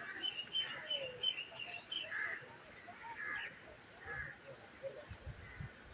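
Small birds chirping: many short high chirps scattered throughout, with a few softer lower calls among them.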